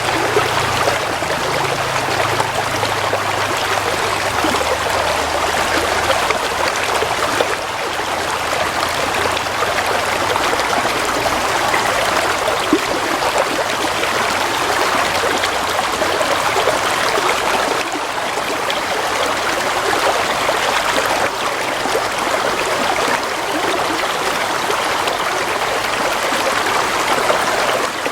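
Stream water flowing steadily, an even rushing babble.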